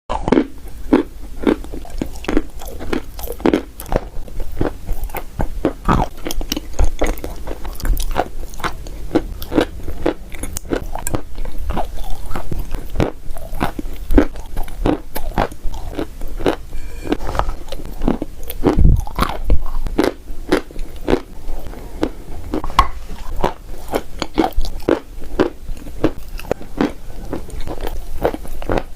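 Close-miked chewing of chalk: a rapid, irregular run of sharp crunches as the chalk is bitten and ground between the teeth.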